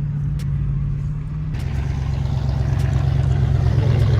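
Car engine running with a steady low hum. About a second and a half in, a rushing noise joins it and the sound slowly grows louder.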